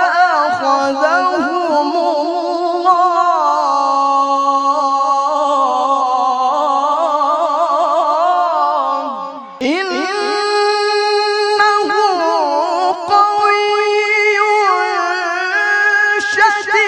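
A male qari reciting the Quran in the melodic tilawah (qira'ah) style, holding long ornamented notes with a wavering vibrato. He breaks briefly for breath about nine and a half seconds in, then resumes on a higher note.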